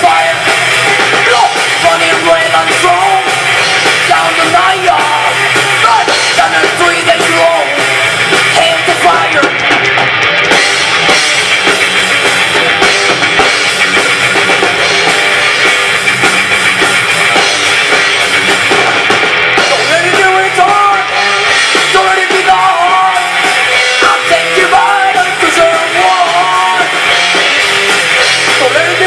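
A rock band playing loudly, with a drum kit and electric guitars.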